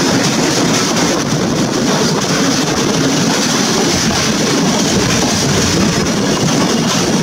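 Passenger coaches of a train rolling past along the platform: a steady rumble of wheels on the rails.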